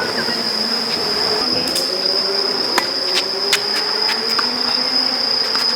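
Steady high-pitched insect drone, with a few sharp knocks of a tennis ball being struck and bouncing, three of them close together about three seconds in.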